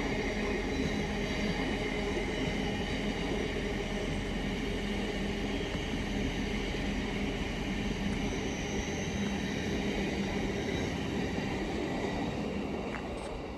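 Train passing slowly through the station: a steady running noise with a low hum, fading slightly near the end.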